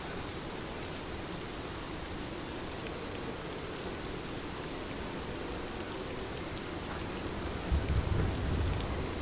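Heavy rain falling steadily, with a low rumble of thunder swelling up near the end.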